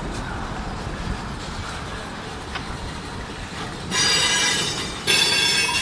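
Slow-moving freight train rolling past with a steady low rumble. About four seconds in, its steel wheels squeal loudly against the rails twice in quick succession, each a high ringing screech.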